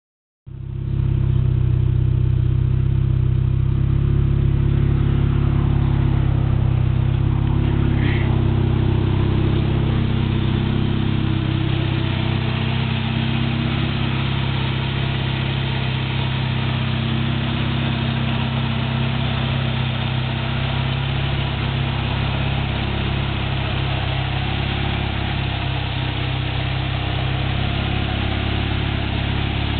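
Turbocharged 2.3 L four-cylinder engine of a 1993 Ford Ranger idling steadily, with a brief high chirp about eight seconds in.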